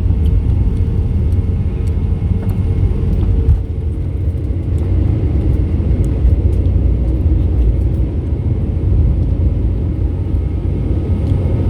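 Steady deep roar of a Boeing 717's twin rear-mounted Rolls-Royce BR715 turbofans at takeoff power.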